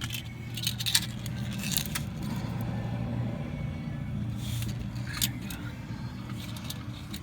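Light metallic clinks and jingles, several close together about a second in and a few more near five seconds, like hand tools or small metal parts being handled while working under a truck's hood. Underneath, a low steady hum that swells and then fades.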